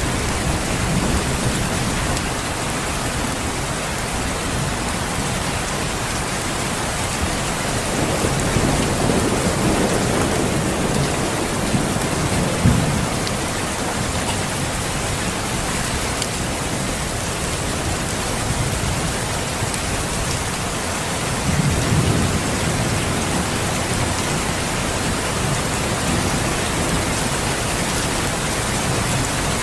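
Steady rain falling, with low rumbles of thunder swelling in about eight seconds in, peaking briefly around twelve seconds, and again around twenty-two seconds.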